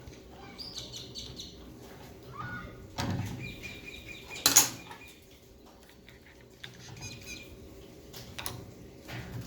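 Metal parts of a belt sander being handled and fitted during assembly: scattered knocks and clicks, a thud about three seconds in, and one sharp metal clank that rings briefly about a second later.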